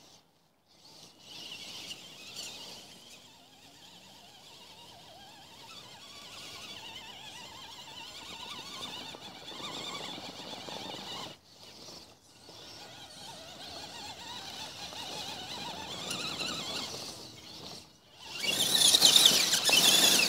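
Radio-controlled trucks driving off-road: a high, varying whine from their motors with churning from the tyres, swelling to the loudest burst near the end. The sound drops out briefly a few times.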